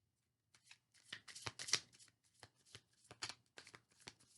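Tarot cards being shuffled and handled by hand: a quick, irregular run of short papery snaps, starting about half a second in.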